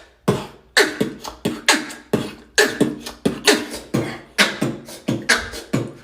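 Human beatboxing: a steady groove of vocal kick drums with falling low thumps and crisp snare and hi-hat sounds, about two to three hits a second.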